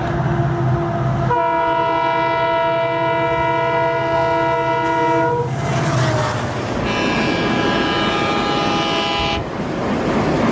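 Dhaka Metro Rail train running, with two long steady horn-like tones: the first starts over a second in and lasts about four seconds, the second, higher one lasts about two and a half seconds and stops shortly before the end.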